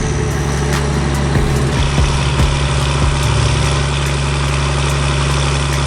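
Heavy diesel engine of a forestry forwarder running steadily while the machine is stuck in mud and trying to gain traction, with a few light knocks.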